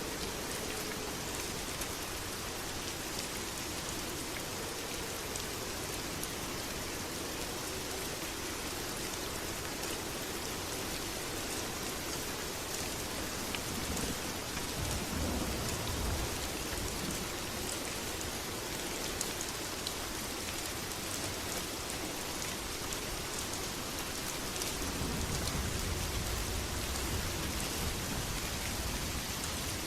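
Steady heavy rain falling and pattering on surfaces, with a low rumble swelling about halfway through and again near the end.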